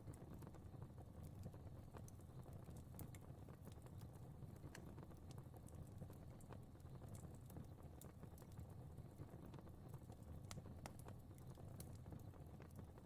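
A fire crackling faintly, with irregular small pops and snaps over a steady low rumble.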